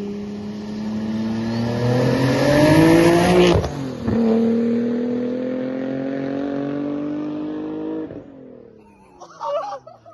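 Twin-turbo Infiniti G37's V6 engine pulling hard under full throttle, revs climbing. A quick upshift about three and a half seconds in, then the revs climb again in the next gear until the throttle is lifted about eight seconds in.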